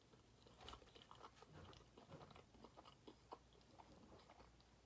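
Faint close-up chewing and mouth noises from someone eating, with small irregular clicks and smacks.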